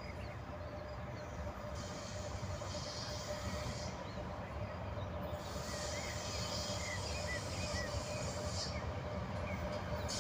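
EP1 electric passenger locomotive and its train approaching, a steady low rumble that slowly grows louder, with a few bird chirps in the middle.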